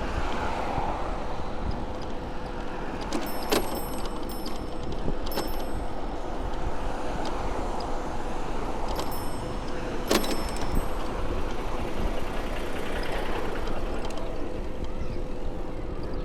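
City street traffic and steady road rumble heard from a moving bicycle, with a few sharp clicks.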